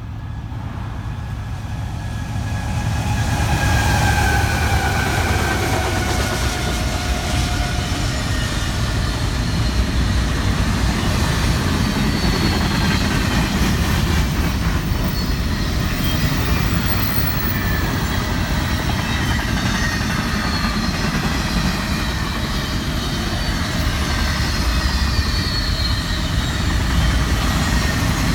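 A Union Pacific train rolling past: a steady heavy rumble of wheels on rail that grows louder about three seconds in, with faint high wheel squeals that slide in pitch.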